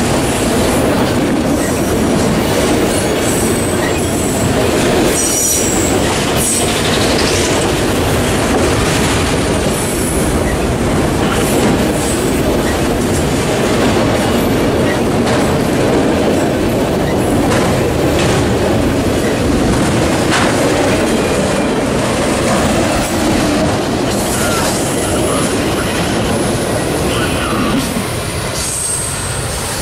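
Freight train of autorack cars rolling steadily past at close range: a continuous rumble of steel wheels on rail with clacking over rail joints and a few brief high wheel squeals.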